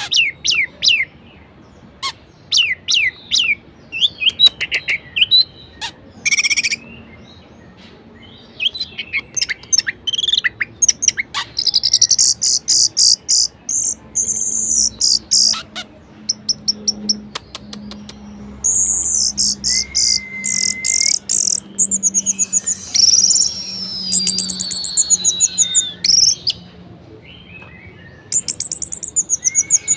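Orange-headed thrush singing a rapid, varied song: sharp chirps, fast high buzzing trills and a few clear whistled slurs, one phrase after another without pause.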